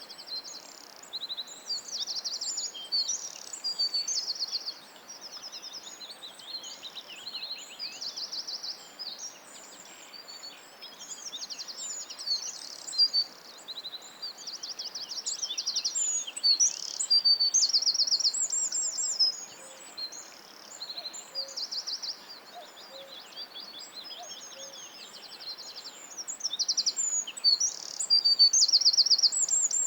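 Several songbirds singing at once, fast high trills and chirps overlapping one after another, over a faint steady hiss.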